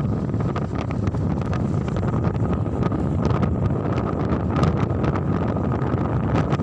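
Wind buffeting the microphone: a steady low rumble with a thin steady whine and scattered light ticks.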